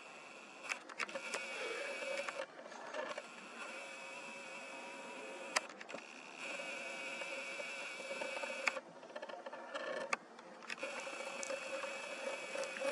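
Faint steady whine of a camera's lens motor or stabiliser, cutting out and coming back several times, with scattered handling clicks.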